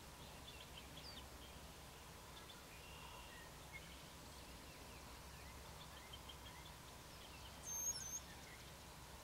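Faint, scattered high bird chirps and short sliding calls. About eight seconds in comes one brief, louder high-pitched squeak.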